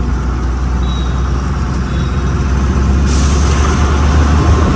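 Truck's diesel engine running steadily, heard from inside the cab while driving, with a burst of hiss starting about three seconds in.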